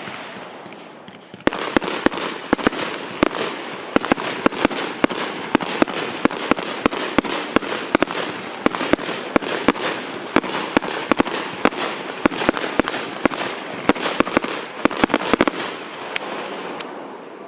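Fireworks crackling: a rapid, continuous stream of sharp cracks over a hiss, growing denser about a second and a half in and dying away near the end.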